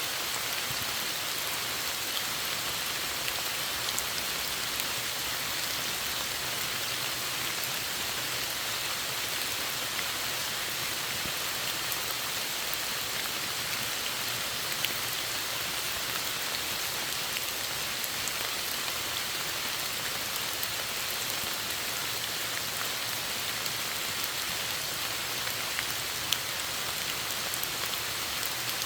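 Steady rain falling, a constant even patter with scattered single drops ticking, now and then a sharper one.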